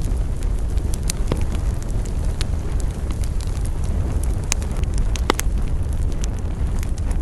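Wood fire burning: a deep steady rumble under frequent sharp crackles and pops of burning wood, with a few louder pops about five seconds in.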